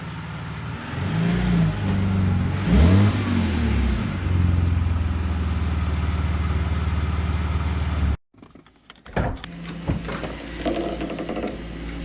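Car engine being revved, its pitch sweeping up and down a few times, then held at a steady higher speed before cutting off abruptly about eight seconds in. Quieter clicks and knocks follow.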